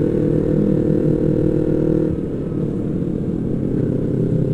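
Yamaha MT-25's 250 cc parallel-twin engine running under way, steady at first, then easing off slightly about two seconds in.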